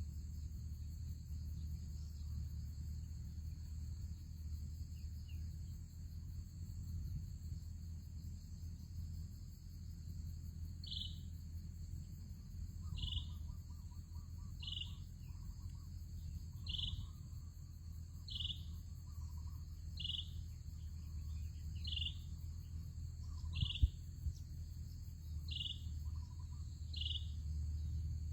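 Insects droning steadily under a low rumble. From about a third of the way in, a bird gives a short high chirp over and over, about one every second and a half to two seconds. A single sharp click sounds near the end.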